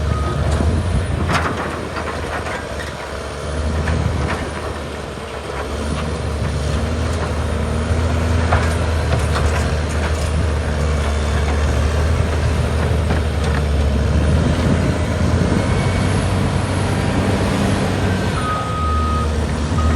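Caterpillar D6R Series II bulldozer's diesel engine running hard, rising and easing as it pushes, with scattered sharp knocks. Its back-up alarm beeps near the end.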